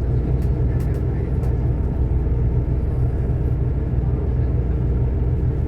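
Diesel train engine running steadily: a constant low hum at an even pitch, with a few faint ticks over it.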